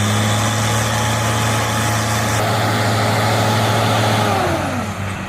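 Heavy vehicle engine running steadily, its pitch falling off near the end.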